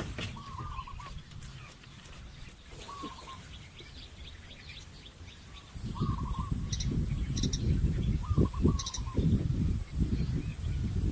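Birds chirping in short repeated calls. About six seconds in, a louder low rumbling noise starts and continues under them.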